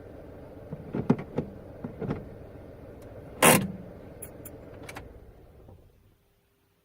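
Car engine running low and steady, with a run of clicks and knocks and one loud thump about three and a half seconds in; the engine sound then fades away near the end.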